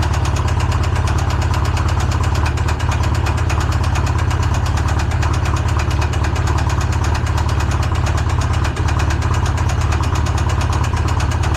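Polaris RZR engine running steadily at idle with a fast, even knock. The owner takes the knock for rod bearings that seized to the crankshaft after a loss of oil pressure, and the engine is running on a fill of Lucas oil.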